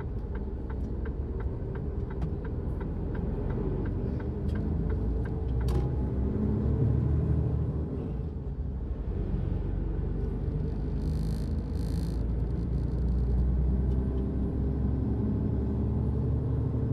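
Truck driving, heard from inside the cab: a steady low rumble of engine and road. A run of light ticks in the first five seconds, and two short hisses about eleven and twelve seconds in.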